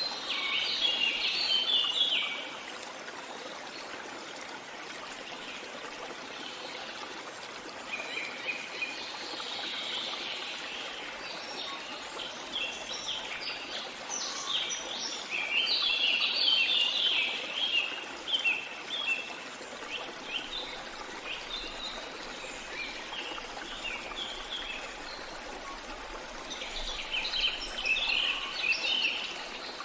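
Stream running steadily, with songbirds chirping over it in bursts: near the start, a long stretch through the middle, and again near the end.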